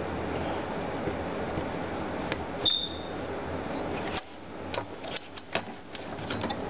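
A few light clicks and taps of small hard objects being handled, one with a brief high ring, over a steady background noise that drops away about four seconds in.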